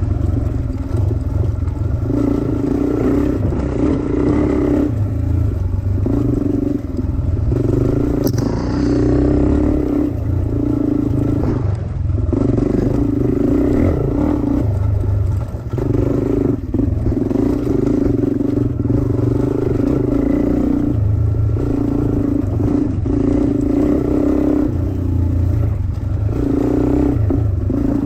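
Dirt bike engine being ridden hard, the throttle opening and closing every second or two so the engine note keeps rising and dropping.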